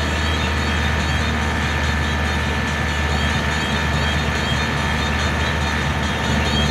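Mitsubishi T120SS pickup truck driving along, its engine running steadily under continuous road noise, with no change in pace.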